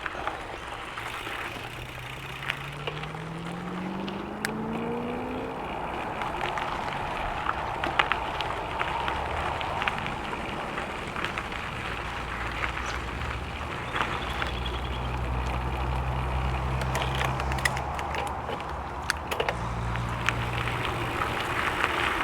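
Gravel bike tyres rolling over a gravel trail: a steady crunching noise with scattered small ticks and rattles. A low hum rises in pitch over the first few seconds.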